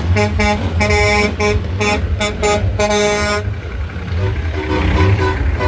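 Truck horn sounding a rapid series of short toots over the truck's running engine. The toots stop about three and a half seconds in, leaving the engine rumbling.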